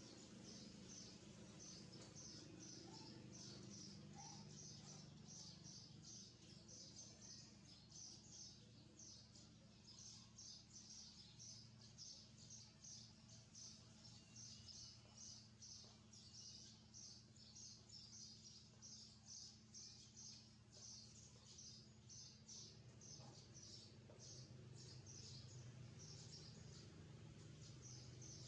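Birds chirping continuously in rapid, high-pitched runs of several notes a second, faint, over a low steady hum.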